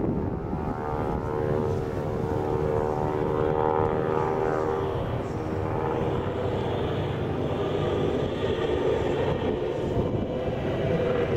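Biplane's propeller engine droning in flight, its pitch drifting down a little over the first few seconds as it passes.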